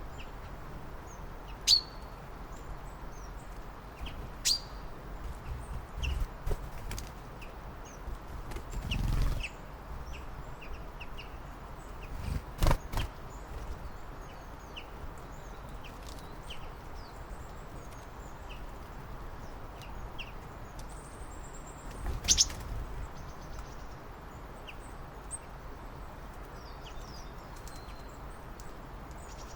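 Small birds chirping and tweeting, many short high calls scattered over a steady outdoor hiss. A few louder sharp knocks with low thuds stand out, the loudest at about 2, 12 and 22 seconds in.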